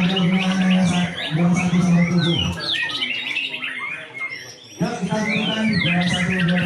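Many songbirds singing at once at a murai (white-rumped shama) contest, a dense mix of rapid chirps and swooping whistles. Under the birdsong a steady low hum stops about two and a half seconds in and returns a couple of seconds later.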